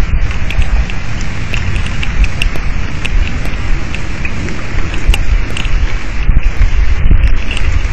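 Heavy thunderstorm rain pouring down, with many sharp drop ticks close to the microphone over a steady low rumble.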